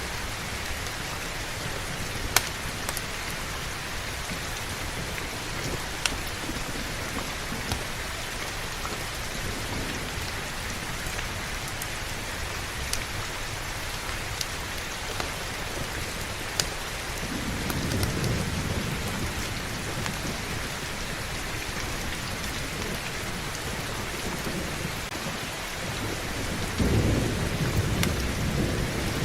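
Steady heavy rain, with two low thunder rumbles: one about seventeen seconds in and a stronger one near the end. A few sharp clicks stand out over the rain.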